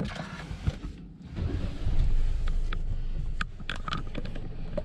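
Hyundai i20's 1.0-litre turbo petrol three-cylinder engine started by the push button, heard from inside the cabin: it starts about a second and a half in and settles into a steady idle. A few light clicks come near the end.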